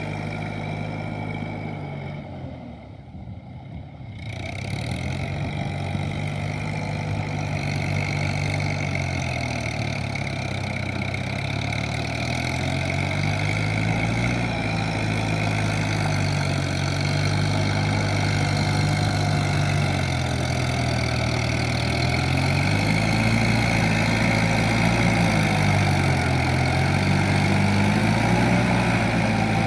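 Kubota M7040SU tractor's diesel engine running, its note rising and falling as the revs change, briefly quieter about three seconds in.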